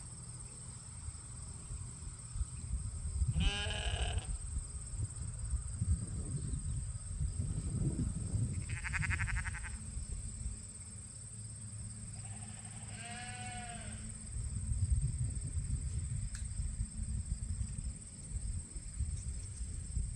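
Sheep bleating three times, each call short with a wavering pitch, the calls about five and four seconds apart, over a steady low rumble.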